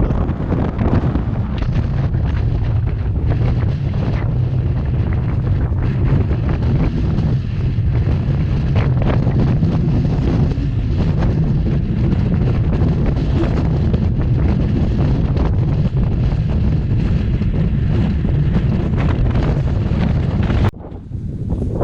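Strong wind buffeting the microphone: a loud, rough low rumble that surges with the gusts, then drops off suddenly about a second before the end.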